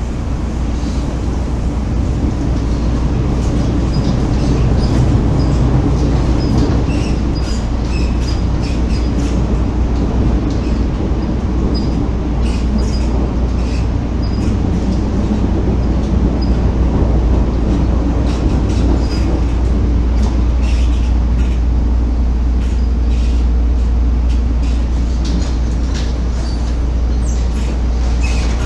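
Inside a Hong Kong MTR East Rail Line Metro-Cammell (MLR) electric multiple-unit car running at speed: a steady low rumble of wheels on rail, with many short, scattered high squeaks and clicks.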